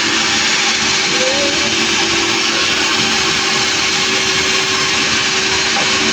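Engine-driven sawmill running steadily: a loud, unbroken machine noise with a steady hum underneath.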